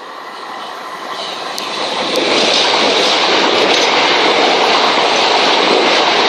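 Two coupled Class 377 electric multiple units running through the station non-stop at speed. The sound builds over the first two seconds as the train approaches, then holds loud and steady as it passes.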